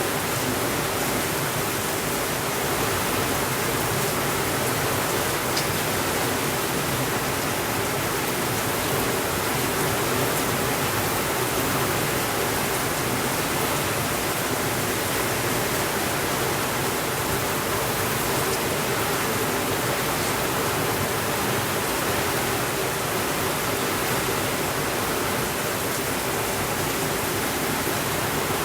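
Heavy rain falling steadily on a window: a dense, even hiss with a few faint ticks here and there.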